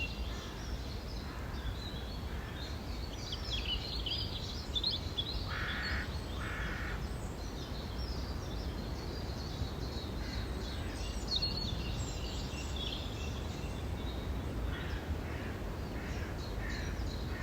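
Several songbirds singing in a spring chorus. About six seconds in, two harsh caws of a crow sound in quick succession. A steady low background rumble runs underneath.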